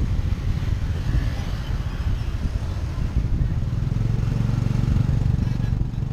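Tuk-tuk riding along a street: its small engine running under a steady rumble of the ride, the engine note growing louder and steadier about four seconds in.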